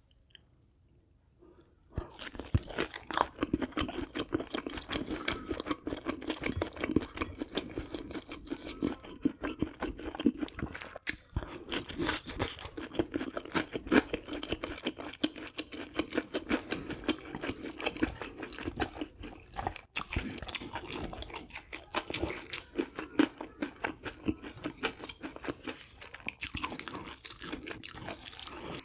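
Close-miked mukbang eating: steady chewing full of rapid small clicks. It starts about two seconds in, after a brief near-silent pause.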